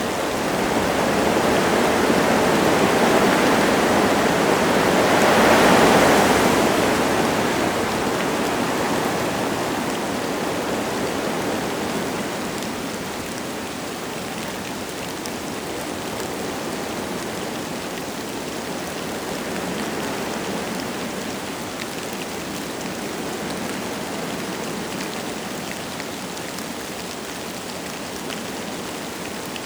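Wind gusting through forest trees with light rain falling. One gust swells to a peak about six seconds in, then eases to a steadier, quieter rush.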